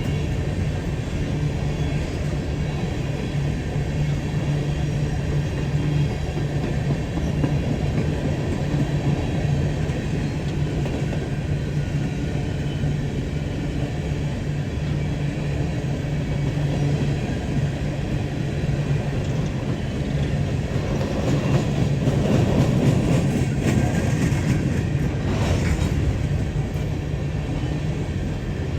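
Diesel freight train rolling on the track, a steady low engine hum under the wheels clacking over rail joints, growing louder and busier near the end.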